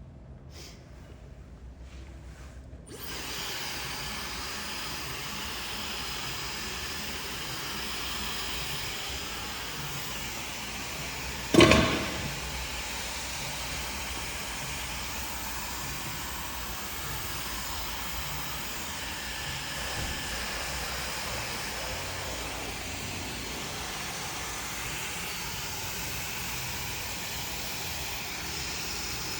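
Handheld hair dryer switched on about three seconds in and then running steadily with an even blowing hiss. A single sharp knock sounds about twelve seconds in.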